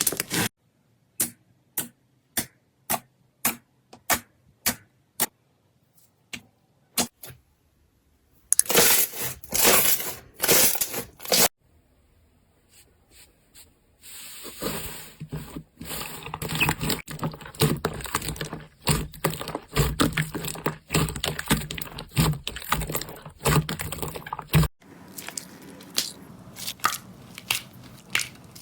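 Slime being pressed and poked, in a string of short clips. First comes a run of sharp pops about two a second, then a few seconds of loud crunching. After a short gap there is a long stretch of dense crackling and scraping that turns quieter near the end.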